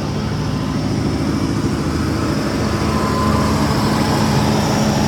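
Car engine idling steadily, its note rising slightly and getting a little louder about three seconds in.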